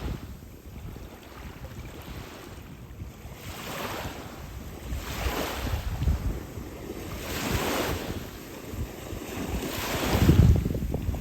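Small waves washing onto the shore, swelling and fading every two to three seconds, with wind buffeting the microphone in low rumbles that are strongest near the end.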